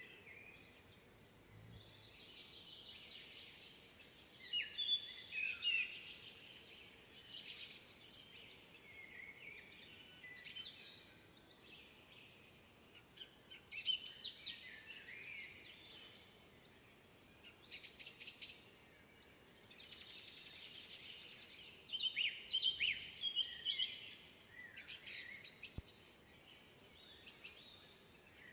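Woodland songbirds singing: short, high, trilled phrases every few seconds over a faint steady hiss.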